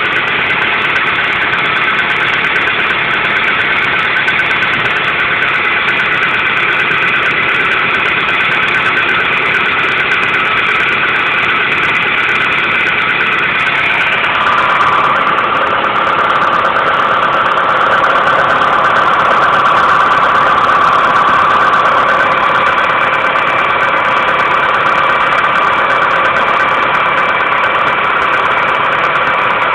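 Hyundai Getz engine idling steadily, with a noise that the owner cannot place as a knock or a ringing. About halfway through its tone shifts lower and it gets slightly louder.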